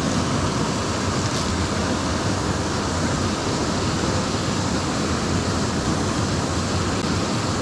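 Steady rush of fast water from a mountain stream tumbling through rocky chutes into a pool.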